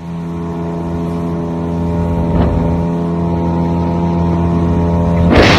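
Motorboat engine running at a steady speed, a constant drone. Near the end a sudden loud rush of noise cuts across it.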